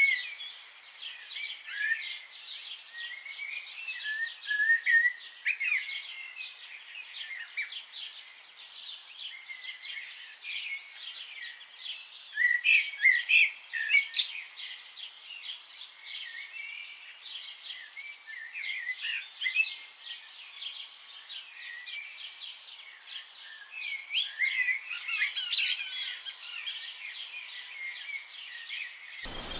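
Many birds chirping and calling at once, a busy chorus of short, high chirps and quick sliding whistles with no letup.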